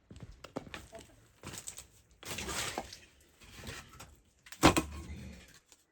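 Knife and meat being worked on a cutting board: irregular knocks and clicks, a short stretch of scraping, and one loud thud a little before the end.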